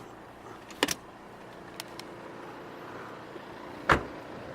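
Sharp clicks and knocks from car fittings being handled over a low steady background: a double click about a second in, two faint ticks soon after, and a louder thump near the end.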